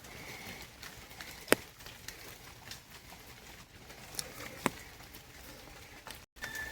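Steady patter of light rain, with a few sharp drip taps close by, the loudest about one and a half seconds in and again near the five-second mark.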